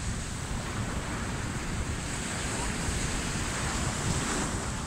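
Ocean surf washing onto the beach, a steady rush that swells a little near the end, with wind buffeting the microphone.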